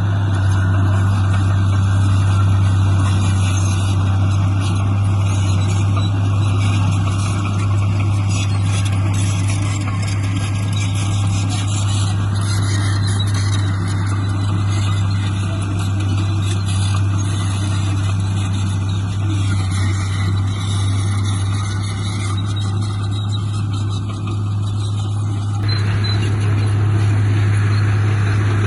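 Heavy diesel engine of earthmoving equipment running steadily with a deep constant hum, along with mechanical clatter and noise.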